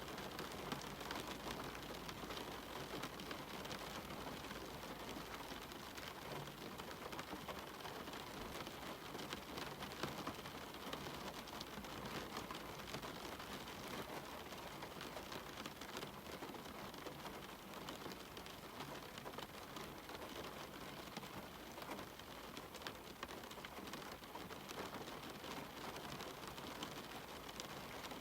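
Steady rain falling, an even hiss with many individual drops striking.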